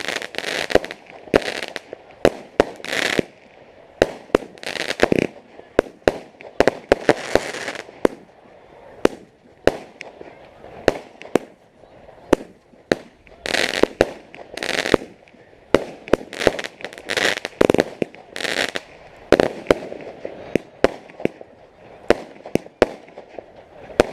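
Fireworks going off: a long run of sharp bangs, at times several a second, mixed with short noisy rushes of crackle.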